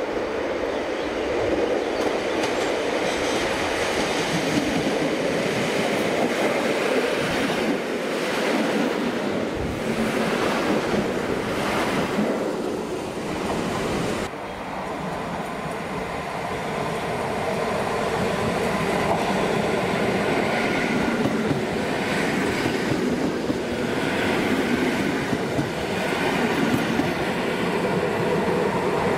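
A train rolling past on the track: a steady rumble of wheels on rail with clatter over the rail joints. The sound drops abruptly about halfway through, then builds again.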